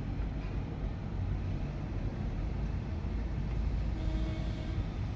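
HMT Zeta 25 tractor engine running with a steady low rumble.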